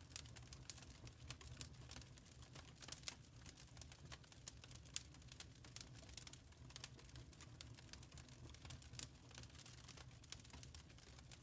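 Faint crackling of a wood fire in a fireplace: many small, irregular pops and snaps over a low, steady rumble of the flames.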